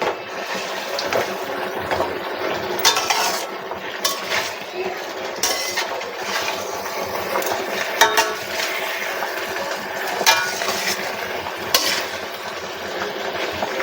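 A ladle slowly stirring chicken pieces through thick masala in a metal pan: scraping against the pan over a steady sizzle, with several sharp clinks of the ladle on the pan.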